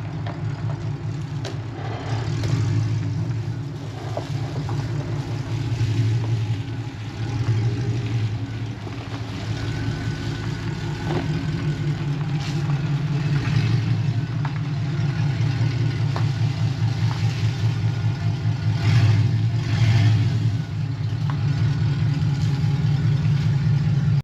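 Truck engine running with a steady low rumble that swells a few times, as with light throttle.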